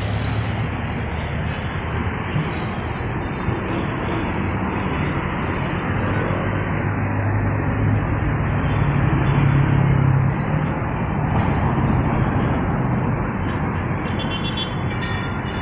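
Road traffic passing at night, a steady rush of engines and tyres. A heavy vehicle's low engine hum swells from about six to ten seconds in as it goes by.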